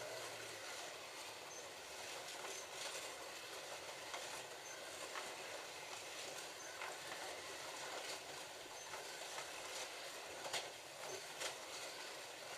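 Several slot cars running together on a plastic track: a steady whir of small electric motors and pickup braids on the rails, with scattered clicks and a few short high beeps.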